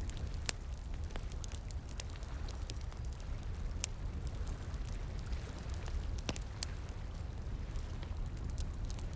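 Wood fire crackling, with irregular sharp pops and snaps, a few louder than the rest, over a steady low rush of flowing water.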